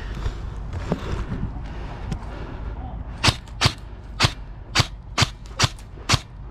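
Airsoft rifle firing single shots: about eight sharp cracks in quick succession, roughly two a second, starting a little past halfway, over a rustling background.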